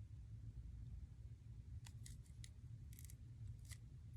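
Faint, light clicks and ticks from handling a small RC helicopter's plastic parts, a few scattered from about two seconds in, over a low steady hum.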